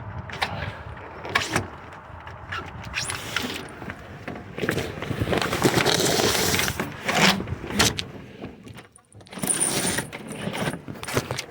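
Handling noise: rustling and scraping with scattered sharp clicks and knocks, a longer dense stretch of scraping in the middle, a brief lull near the end, then more rustling.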